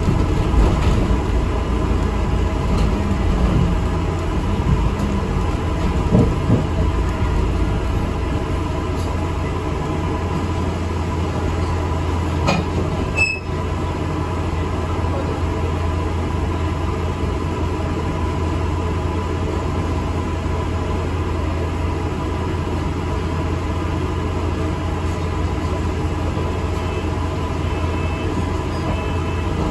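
Inside an ADL Enviro 400 MMC double-decker bus on the move: the engine and drivetrain give a steady low drone under road and cabin rumble. There is a short click about 13 seconds in.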